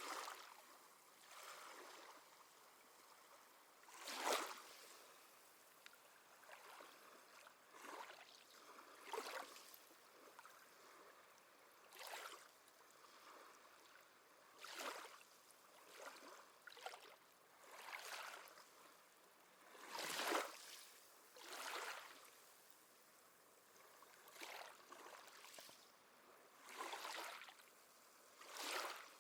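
Small waves lapping gently at the water's edge, soft irregular splashes every one to three seconds.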